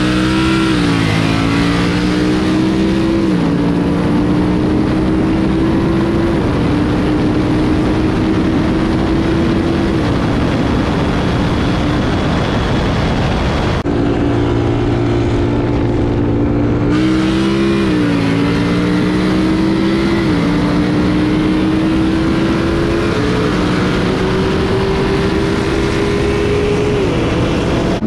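Single-turbo BMW 335is inline-six under hard acceleration, its pitch climbing through each gear and dropping sharply at each upshift, roughly every three seconds.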